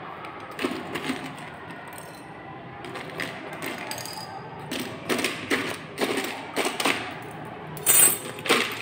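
Irregular light taps, knocks and clinks as zinc metal pieces and glassware are handled, with a sharper ringing clink near the end.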